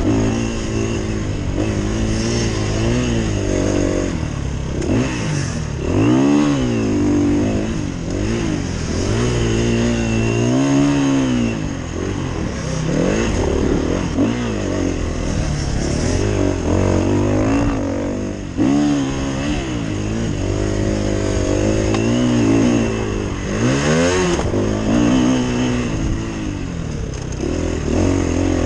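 KTM 350 EXC-F single-cylinder four-stroke dirt bike engine, heard from the rider's helmet camera. The engine revs hard up and down again and again as the bike accelerates, shifts and brakes around a motocross track.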